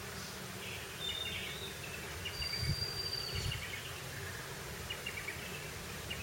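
Outdoor nature ambience with a steady background hiss, scattered bird chirps and one short held whistled note, and two low thuds about three seconds in.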